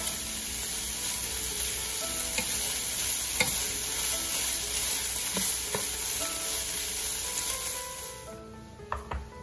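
Ground beef, onion and bell pepper sizzling in a hot nonstick frying pan while a wooden spatula stirs and scrapes through the mixture, with a few sharp knocks against the pan. The sizzle cuts off about eight seconds in, leaving soft background music.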